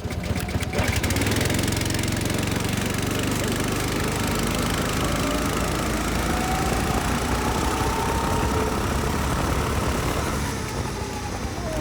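Go-kart's small gas engine running steadily under throttle with a rapid, even firing note.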